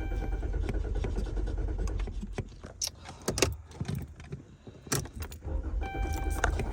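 A car's starter cranking the engine, which does not catch. The cranking stops about two and a half seconds in, leaving a quieter gap with clicks and jangling keys at the ignition, then cranking starts again near the end. A steady electronic tone sounds along with the cranking near the start and near the end.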